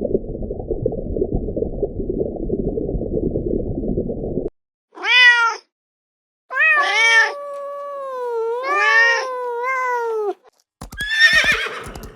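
A cat meowing: one short meow about five seconds in, then a long drawn-out meow that wavers up and down in pitch. Before the meows, a steady low rumble runs for about four and a half seconds.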